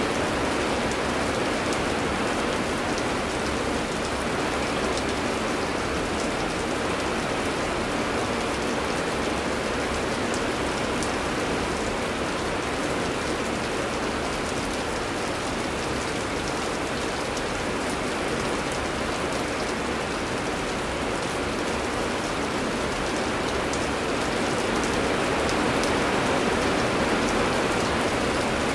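Heavy rain falling steadily: an even hiss of rain with faint scattered drop ticks.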